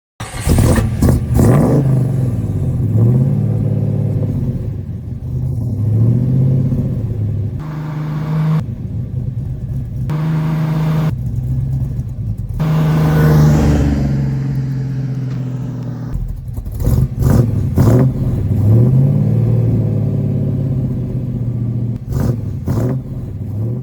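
1969 Chevrolet Camaro SS V8 engine running at a fast idle and being revved several times, the engine note rising and falling, with a few sharp cracks from the exhaust in the later part.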